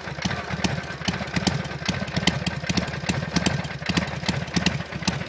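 Harley-Davidson Sportster's V-twin idling at low engine speed through a Screaming Eagle muffler, with a deep, uneven, loping exhaust beat.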